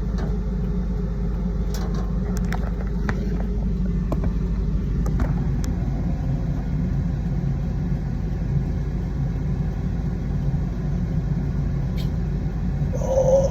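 A vehicle's engine running with a steady low rumble, with a few faint clicks and a short higher-pitched sound near the end.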